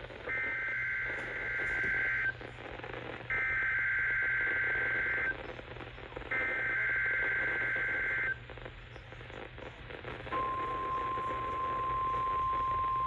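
NOAA Weather Radio emergency alert: three bursts of the SAME digital header, a warbling data screech each about two seconds long and a second apart, then about ten seconds in the steady single-pitch 1050 Hz warning alarm tone begins, all over a steady radio hiss.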